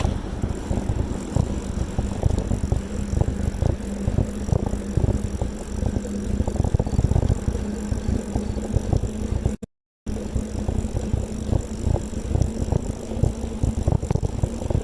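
Bicycle riding over pavement: rumbling with many small rattles and knocks from bumps, over a steady hum. The sound cuts out completely for a moment about two-thirds of the way through.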